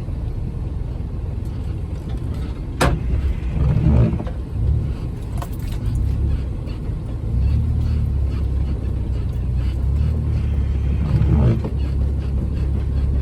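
Jeep Wrangler running slowly on a snowy trail, a steady low drone of engine and drivetrain. A sharp click comes about three seconds in, and a few knocks and bumps around four and eleven seconds in.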